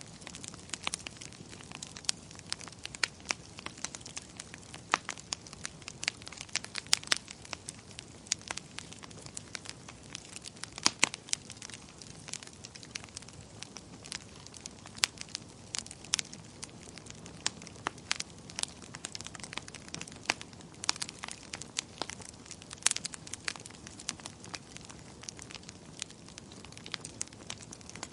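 Fire crackling in a fireplace: irregular sharp pops and snaps, sometimes several in quick succession, over a soft steady hiss.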